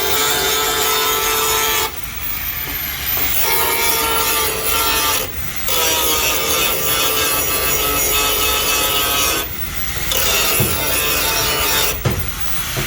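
A power tool sanding or rasping on bodywork, running steadily with a constant whine. It breaks off briefly four times, as at edits.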